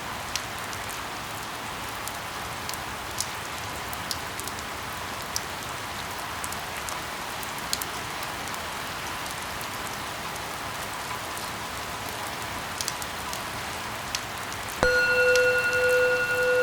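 Steady rain with scattered sharp drip ticks. Near the end a loud steady tone with overtones cuts in suddenly over the rain.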